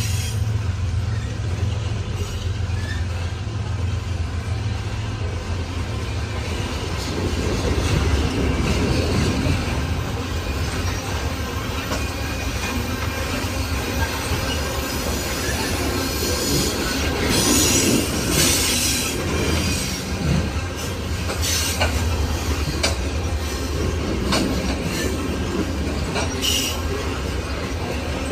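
Freight train of loaded coal cars rolling past, with a steady low rumble, wheels clicking over rail joints and bursts of high wheel squeal.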